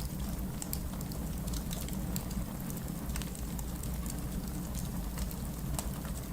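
Heavy rain falling steadily as an even, low-heavy hiss, mixed with a wood fire crackling in scattered sharp pops.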